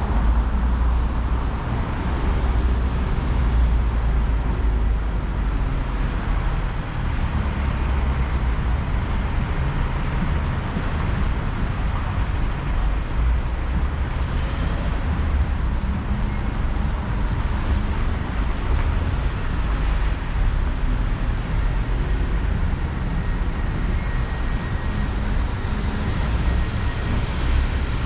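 Steady city street traffic noise: a continuous low rumble of passing cars and buses, with a few short, faint high squeaks.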